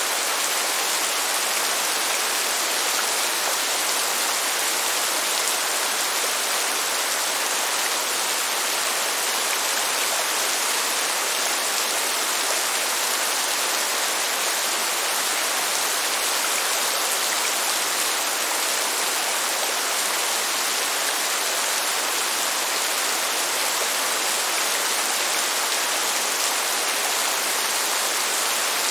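Rain falling in a steady, even hiss, with no thunder.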